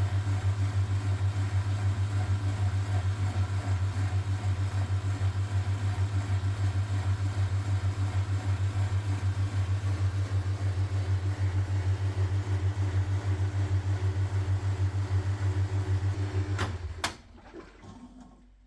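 1969 Zanker VA520 washing machine running with a steady low hum that pulses quickly. It switches off with two clicks about 17 seconds in.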